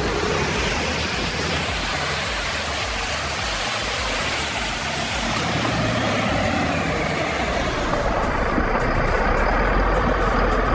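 A heavy motor vehicle or machine running, a dense mechanical rumble that grows heavier and slightly louder in the last few seconds.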